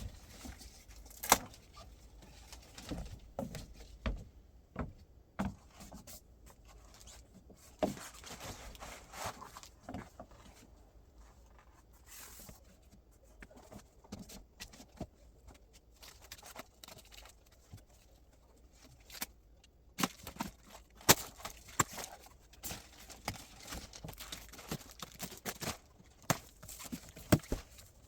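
Scattered, irregular knocks, scrapes and rustles of packaging being opened and handled, with a quieter stretch in the middle.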